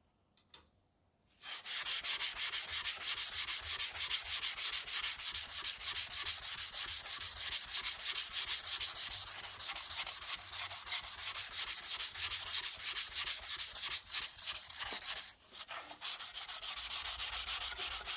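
Rapid, rough sanding strokes with an abrasive on the knife. They start after about a second and a half of near silence and pause briefly about fifteen seconds in before carrying on.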